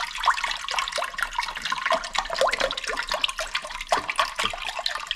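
Liquid beef stock poured from a one-litre carton into a slow cooker pot, running steadily with many small splashes and bubbling sounds.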